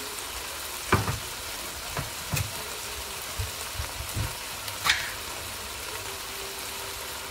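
Chicken pieces and onions sizzling steadily in a hot pot, with a handful of short clicks and knocks at irregular moments in the first five seconds.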